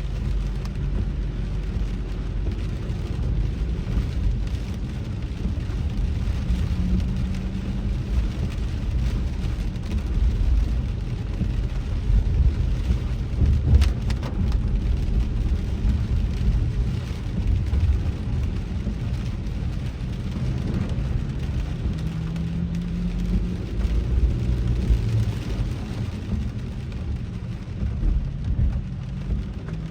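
A car driving in a rainstorm, heard from inside: a steady low rumble of engine and tyres with the hiss of rain on the car, and one sharp click about midway.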